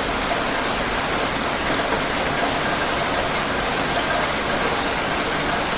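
Heavy rain falling, a steady, even hiss of dense drops on a surface.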